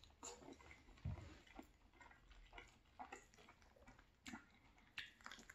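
Faint close-up chewing of cheesy penne pasta: scattered soft wet mouth clicks and smacks, with a soft low thump about a second in.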